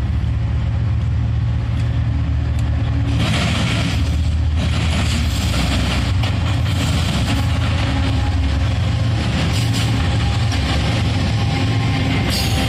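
A BNSF freight train passing close. Its diesel locomotives run with a steady low drone, a louder rush of noise comes in about three seconds in as they go by, and then the intermodal container cars roll past on the rails.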